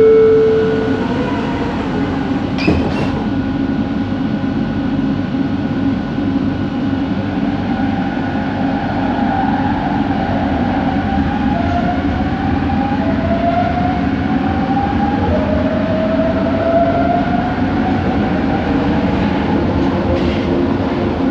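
Bombardier Innovia ART 200 metro train accelerating, heard from the passenger car: a steady running rumble with a motor whine that climbs in pitch in a series of rising steps. This is the weird motor noise of its linear induction motor drive. There is a short knock about three seconds in.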